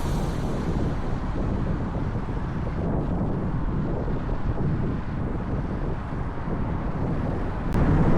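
Wind buffeting the camera microphone on a moving bicycle: a steady low rumble of rushing air.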